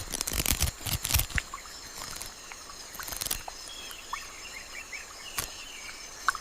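Rainforest ambience: steady high insect chirring with scattered short bird chirps, and a cluster of sharp clicks or snaps in the first second, with single ones about three and five and a half seconds in.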